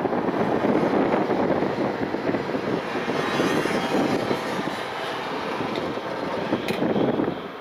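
Fireworks display heard from a distance: a continuous rolling rumble of aerial shell bursts and their echoes, with one sharp crack near the end.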